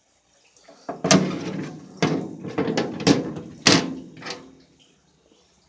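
A series of about six heavy knocks and clunks, irregularly spaced about half a second to a second apart, from the antique rocker tub washing machine being worked or handled.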